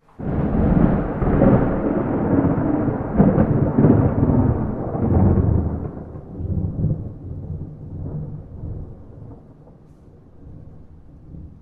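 Thunder with no rain: a sudden crack that rolls into a long, loud rumble, fading after about six seconds into a faint low grumble.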